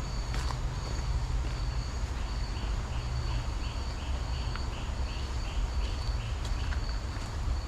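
Tropical forest ambience: a steady high-pitched insect drone, with a series of short chirping calls repeated about three times a second through the middle, over a steady low rumble.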